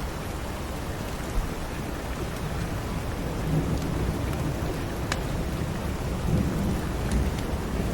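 Steady rain with a low rumble underneath that swells about halfway through, and a few sharp crackles from a wood fire in a fireplace.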